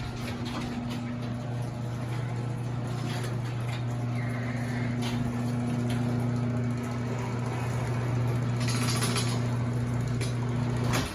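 Steel Craft chain-drive garage door opener closing the door: the motor hums steadily while the chain rattles along the rail, then the motor stops abruptly as the door reaches the floor. The chain is a bit rattly.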